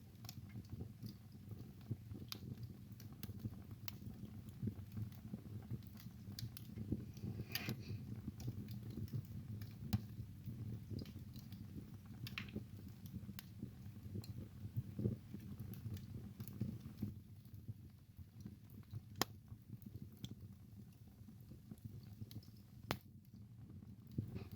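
Wood fire burning in a fireplace: a soft low rumble of the flames with irregular crackles and occasional sharper pops.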